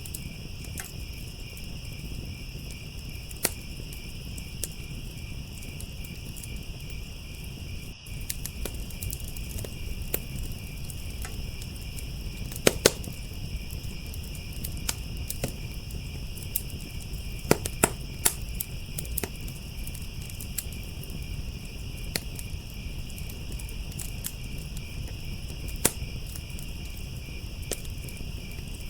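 Crickets trilling steadily in chorus over a wood fire crackling, with irregular sharp pops from the burning wood; a few of the pops, about halfway through and again a few seconds later, stand out loudly.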